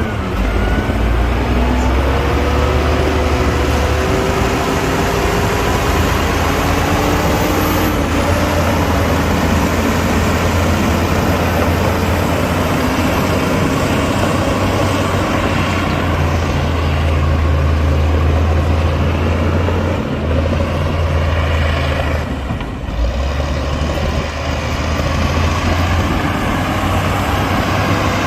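Heavy diesel earthmoving machinery running loudly with a deep, steady rumble. A whine falls in pitch over the first few seconds, and the sound dips briefly about three-quarters of the way through.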